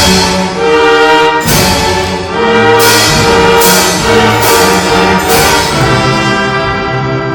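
Symphony orchestra playing loud, brass-heavy sustained chords, struck by sharp accented hits about once a second. The hits stop and the music eases near the end.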